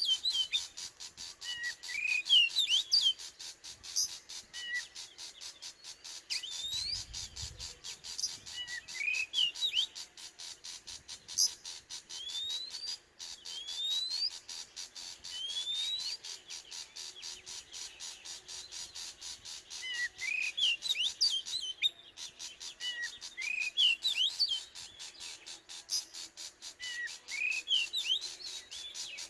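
Oriental magpie-robin singing: repeated short phrases of clear, rising whistled notes every few seconds, with pauses between phrases.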